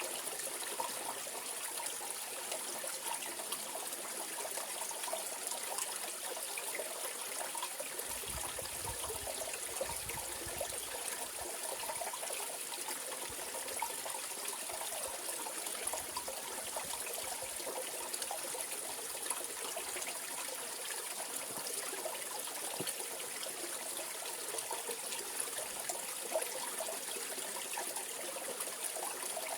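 Mountain valley stream flowing over rocks, a steady rushing and trickling of water.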